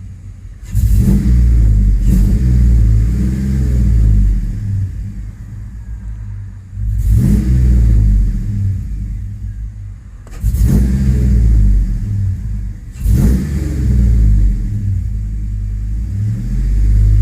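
Chevrolet Tahoe's 5.3-litre V8 running and revved up four times, each rev swelling loud and then falling back to a lower drone.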